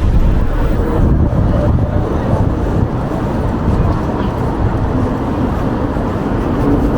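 Strong wind buffeting the microphone, a loud, unsteady low rumble with no break.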